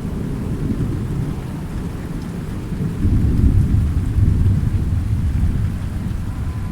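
Thunderstorm: a low rumble of thunder that swells about three seconds in and slowly dies away, over steady falling rain.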